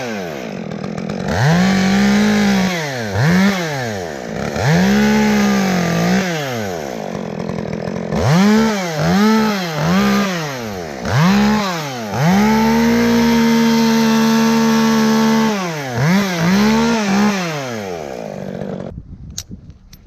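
Chainsaw engine revved up and down in a string of short bursts, held at full throttle for about three seconds partway through, then dying away near the end.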